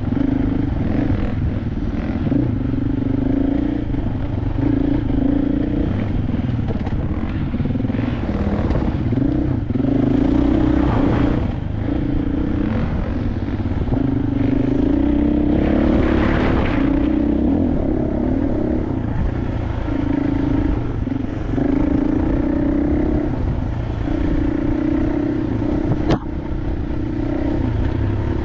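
KTM 500 dirt bike's engine running under way off-road, its note swelling and easing as the throttle opens and closes, with clatter from the bike over rough ground. There is a short rush of noise about ten seconds in and again around sixteen seconds.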